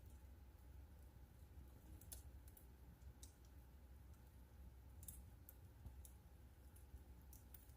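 Wood fire crackling faintly in a fireplace: scattered sharp pops at irregular intervals over a steady low rumble.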